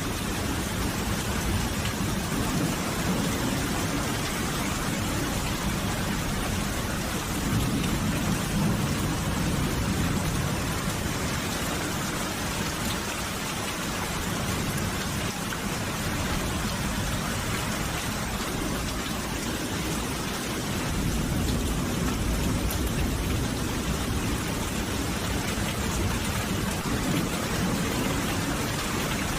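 Steady heavy rain falling, a dense even hiss, with a deep low rumble that swells twice and fades.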